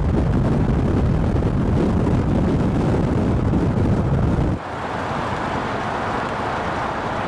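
Loud, steady low rumble of a vehicle with wind buffeting the microphone; it cuts off abruptly about four and a half seconds in, leaving a quieter steady hiss.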